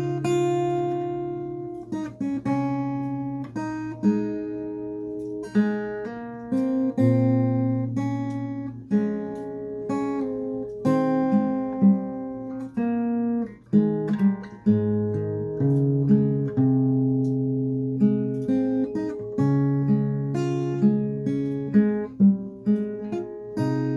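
Solo acoustic guitar playing a slow fingerpicked melody over bass notes, each note plucked and left to ring.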